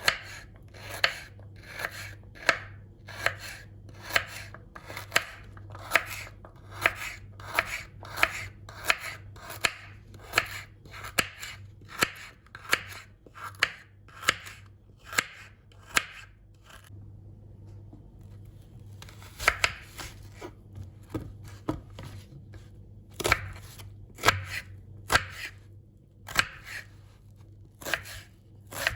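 Knife chopping vegetables on a cutting board in steady strokes, about two a second. The chopping pauses for a few seconds just past the middle, then resumes in a more irregular rhythm.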